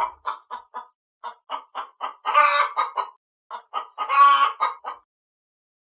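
Chicken clucking in a quick run of short clucks, broken by two longer, louder squawks about two and a half and four seconds in.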